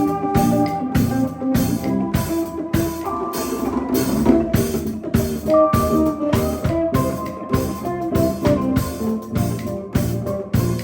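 Live band playing with drum kit and guitar, the drums keeping a steady beat of about two hits a second under held guitar notes.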